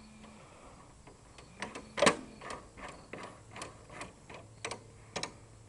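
A part being slid onto a lawn tractor's shift lever, a welded-on bolt end: a string of about a dozen irregular light clicks and knocks, the loudest about two seconds in.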